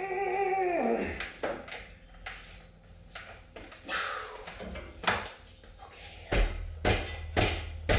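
Knocks and clunks of an engine being worked up and out of the car's engine bay on a hoist, several heavier ones with low thumps near the end. A short wavering high whine opens it and fades about a second in.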